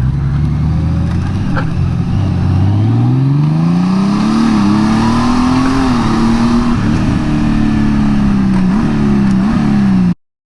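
Honda Gold Wing flat-six engine accelerating: its pitch rises steadily for a few seconds, then holds with small dips. Cuts off suddenly near the end.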